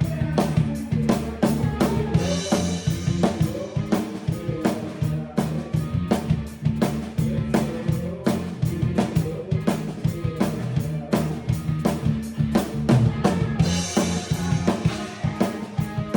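Rock band music led by a full drum kit playing a steady beat, with kick, snare and rimshot hits about four a second over sustained bass and guitar notes. Crash cymbals ring out a few seconds in and again near the end.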